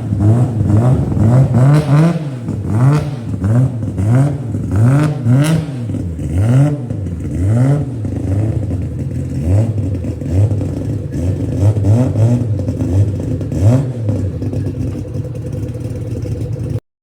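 Nissan Skyline GT-R R33's twin-turbo RB26 straight-six being revved in short, repeated throttle blips, about one a second, the pitch rising and falling with each. The sound cuts off suddenly near the end.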